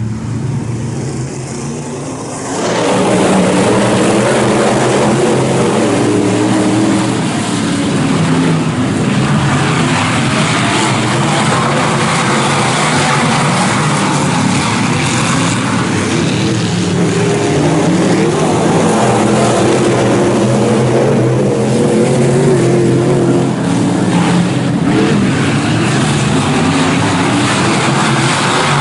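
A field of IMCA Northern SportMod dirt-track race cars with V8 engines running together on the track, several engine pitches rising and falling against each other. The sound jumps sharply louder about two and a half seconds in and stays loud from there.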